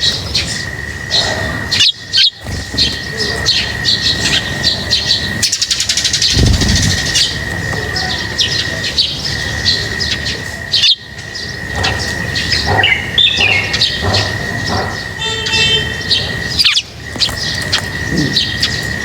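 Many small birds chirping in quick, dense succession, with a steady high tone running underneath.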